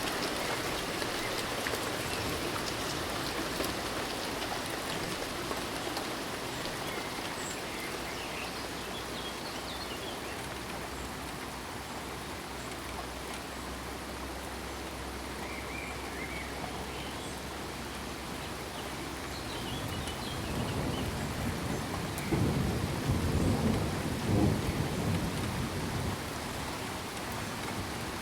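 Steady rain, with a low roll of thunder that swells about two-thirds of the way in and fades near the end. Faint, scattered frog and cricket chirps sound above the rain.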